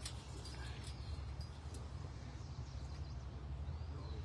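Outdoor ambience: a steady low rumble with a few faint, brief bird calls scattered through it.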